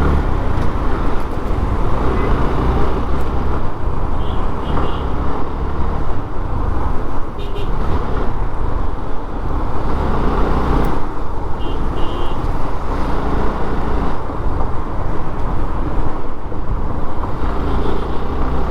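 Suzuki Gixxer motorcycle running steadily through city traffic, its engine and wind noise heard from the rider's helmet, with other traffic around. A few short high beeps, some in pairs, sound about four, seven and twelve seconds in.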